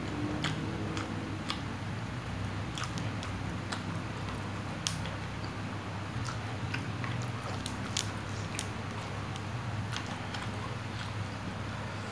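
Close chewing and wet mouth clicks of someone eating instant fried noodles, the clicks coming irregularly every half second or so, over a steady low hum.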